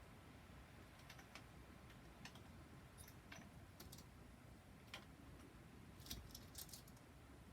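Faint, irregular clicks and taps, about a dozen, a few of them in quick clusters, over near silence.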